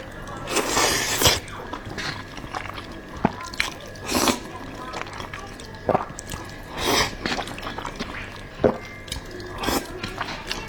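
Noodles being slurped and chewed: a few short slurps, the longest about a second in, with wet clicks and smacks between them.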